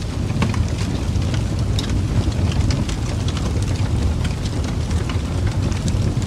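Fireplace fire crackling: a steady low rumble with frequent short, sharp pops and crackles scattered through it.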